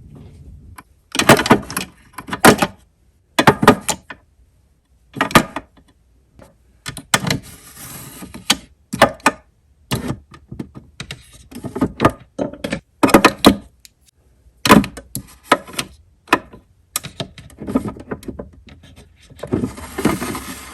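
Household objects being handled and put down while a room is tidied: irregular clatters, knocks and jangles, some in quick clusters, with short rustling stretches between them.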